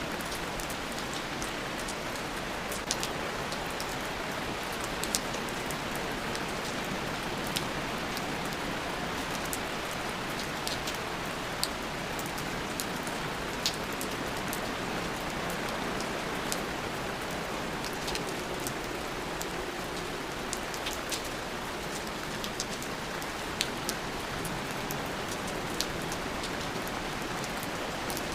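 Steady rain, an even hiss of rainfall with single drops ticking sharply now and then.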